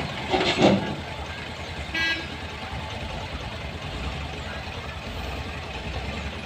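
Heavy road vehicles running, with a couple of loud noisy bursts in the first second and one short, high horn beep about two seconds in.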